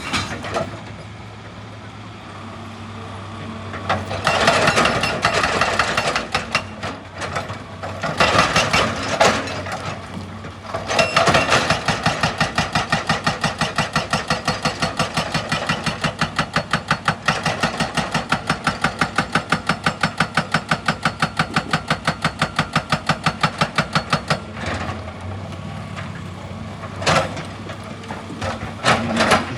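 Excavator engine running with a hydraulic breaker hammering rock: a couple of short bursts, then a long run of rapid, evenly spaced blows for about thirteen seconds before it stops and the engine runs on alone.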